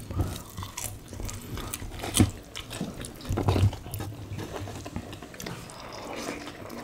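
Close-up eating sounds of people chewing rice and sambal squid: wet chewing and lip-smacking with many short, irregular mouth clicks, a few of them louder.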